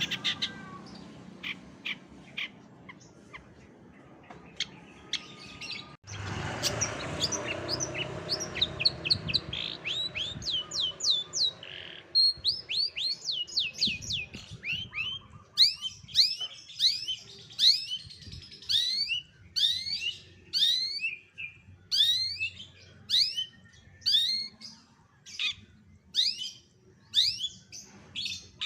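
Songbird song for bird-contest masteran: high chirps and whistles, cutting over about 6 seconds in to another recording. The second half is a rapid series of sharp, high downward-sweeping notes, roughly two a second.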